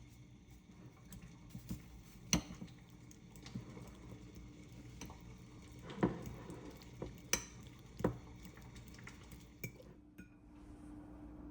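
Dishes and cutlery being handled in a kitchen: a handful of separate sharp clinks and knocks spread over several seconds, over a faint steady hum.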